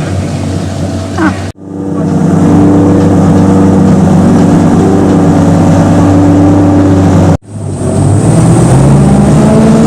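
The engine of a World War II DUKW amphibious truck running steadily under load, heard from aboard. The sound cuts out abruptly twice, and near the end the engine note rises as it picks up speed.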